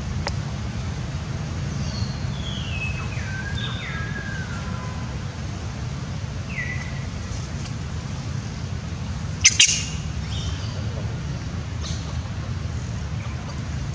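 Birds chirping: a few calls falling in pitch in the first half, then one loud, sharp call about two-thirds of the way in, over a steady low rumble.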